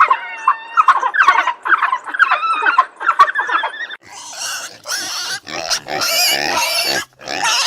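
Animal calls: quick, chirping squawks for the first few seconds, then, about four seconds in, a change to harsh, rough squeals and grunts in several long stretches.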